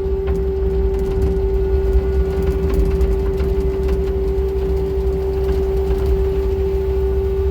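Steady mechanical hum: one constant tone over a low rumble, with a few faint clicks.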